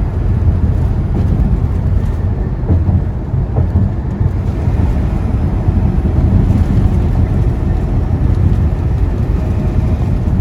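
Steady low rumble of a semi truck's diesel engine and road noise inside the cab while cruising on the highway.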